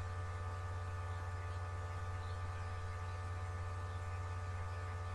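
Steady electrical mains hum with a low drone and a few fainter higher tones above it, unchanging throughout.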